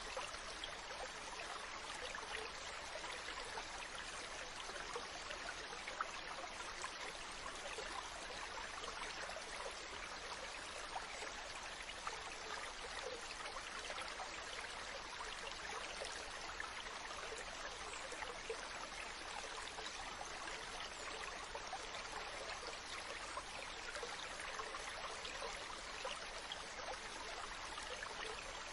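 A mountain stream flowing steadily over rocks, an even rush of running water with small splashes and trickles.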